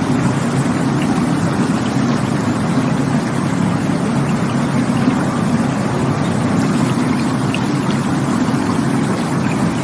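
Rushing water running in a steady, unbroken low rush.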